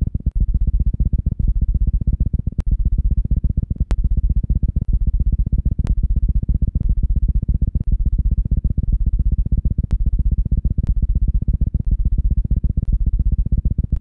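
Hummingbird heart sounds at about 1,000 beats per minute: a fast, even run of low thuds, with a few faint clicks here and there.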